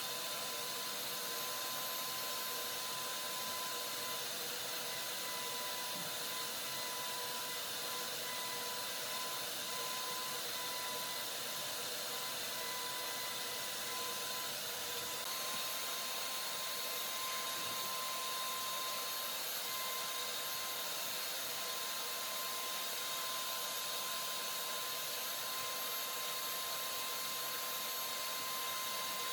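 A small motor-driven tool or blower running steadily: an even hiss with a thin, high whine that holds one pitch throughout.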